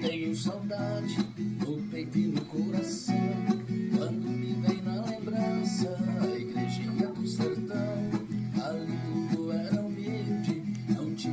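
Viola caipira, the Brazilian ten-string folk guitar strung in five double courses, played solo: a quick run of plucked notes and strummed chords over ringing low strings, in a steady rhythm.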